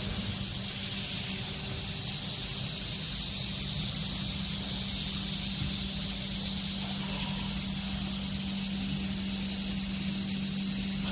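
CNC glass cutting line machinery running: a steady hum with a constant low tone and a high hiss.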